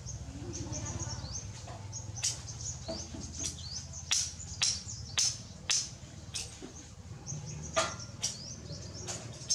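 Small birds chirping: many short, high chirps, with a run of sharper, louder chirps from about two to six seconds in and two more near the end, over a low steady hum.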